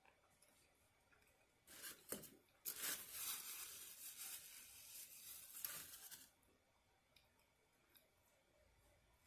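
Takeout food packaging being handled: a short rustle, then about three and a half seconds of continuous crinkling and tearing that stops abruptly.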